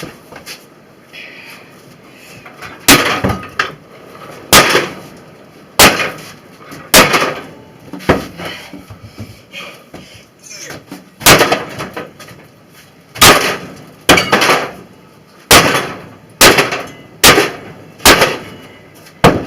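Sledgehammer blows smashing a microwave oven: about thirteen loud crashing impacts, starting about three seconds in and coming roughly once a second, with a longer pause midway.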